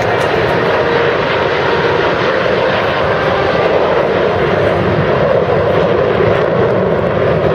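Loud, steady engine roar of a jet aircraft flying by.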